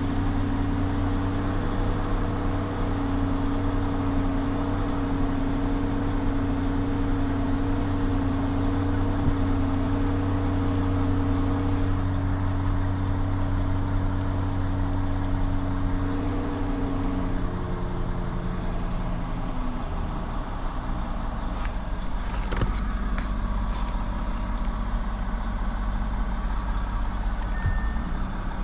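Lamborghini Urus 4.0-litre twin-turbo V8 idling, heard from inside the cabin. About seventeen seconds in the steady hum drops in pitch and settles lower, with a few clicks a little later and a short beep near the end.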